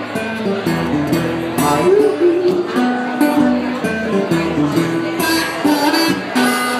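Live blues guitar playing an instrumental break between sung verses, with plucked notes and strummed chords.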